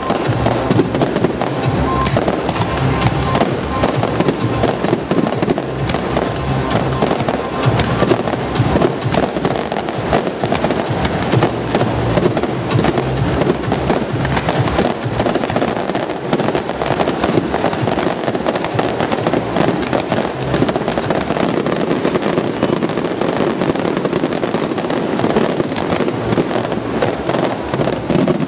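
Fireworks display: a dense, unbroken run of bangs and crackling pops from aerial shells bursting and ground-fired comets, with music playing underneath.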